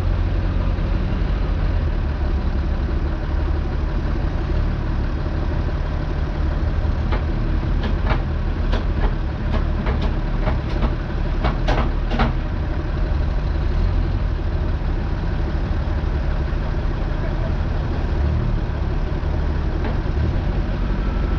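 Zetor 16145 tractor's straight-piped turbo diesel engine running steadily. A run of sharp knocks or clatters comes about a third of the way in and lasts some five seconds.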